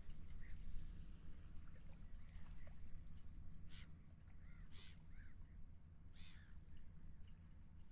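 Seagulls calling again and again, the strongest calls about four, five and six seconds in, over a steady low rumble.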